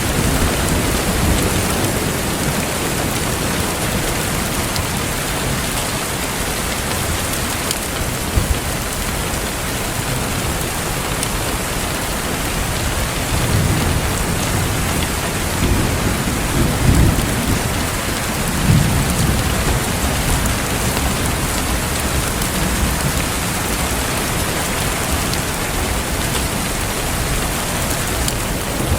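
Steady, heavy rain falling, with low rolls of thunder swelling up about halfway through and a few faint pops from a crackling wood fire.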